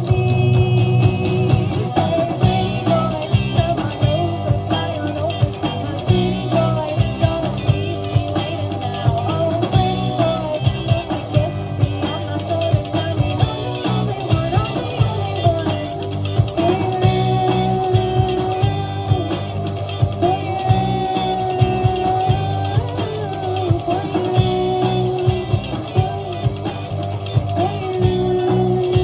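Live rock band playing a song: guitar over a steady drum beat, with a bass line underneath.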